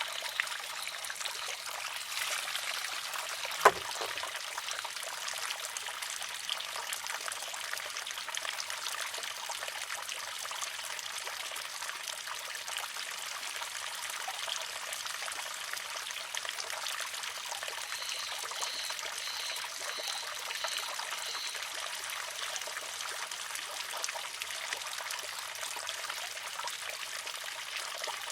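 Water trickling steadily from the spout of a wooden shishi-odoshi. About four seconds in, the water-filled arm tips and strikes its rock once with a sharp clack, the loudest sound here.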